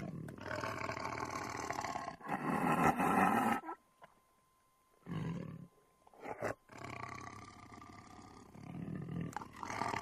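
A big cat roaring. One long roar runs for about three and a half seconds, then there is a short silence, then two brief grunts and a longer, quieter roar that swells again near the end.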